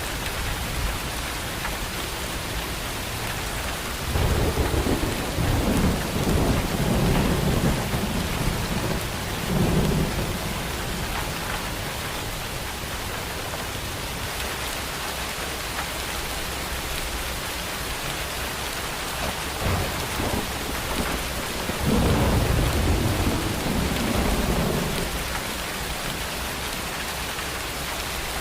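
Steady rain falling, with two rolls of thunder rumbling over it: a long one starting about four seconds in and lasting several seconds, and a shorter one near the end.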